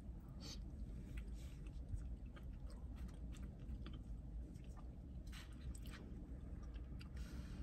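Close-up chewing and mouth sounds of someone eating spoonfuls of chili, with small clicks and a few short hissy bursts over a steady low rumble.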